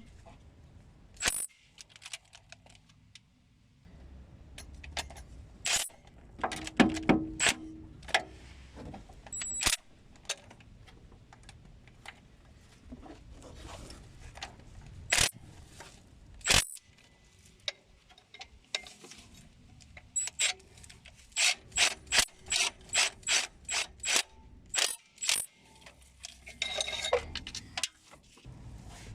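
Hand ratchet wrench clicking in short runs as bolts are turned, with scattered clinks and knocks of tools on metal. Near the end comes a quicker, regular run of clicks, about two or three a second.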